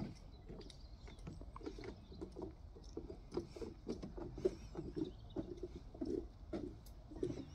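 Birds calling: a run of short, low calls, about three a second, starting a couple of seconds in, with scattered light clicks.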